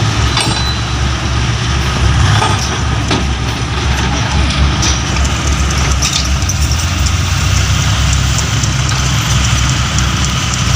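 Mitsubishi Fuso dump truck's diesel engine running steadily at low revs.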